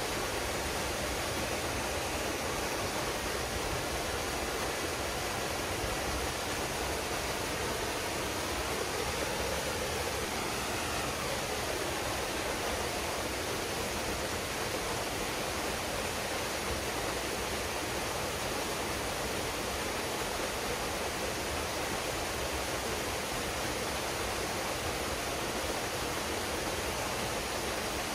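Waterfall pouring steadily into a pool, a dense unbroken rush of falling water.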